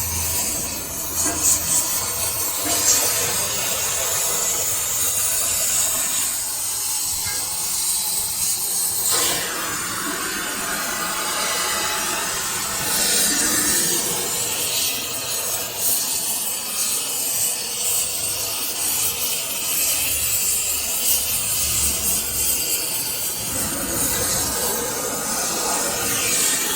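Metal being worked on a lathe: a continuous harsh scraping and rasping of the cutting tool or file on the turning steel roller, shifting in tone a few times as the cut changes.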